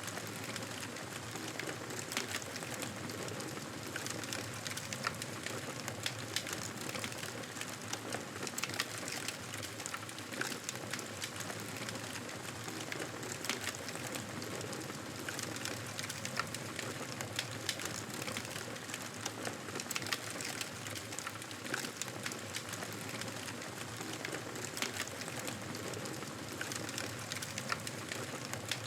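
Fireplace fire crackling: a steady hiss dotted with frequent sharp crackles and pops.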